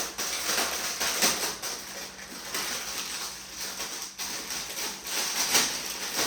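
Plastic packaging crinkling and rustling as it is handled, with a few sharper crackles.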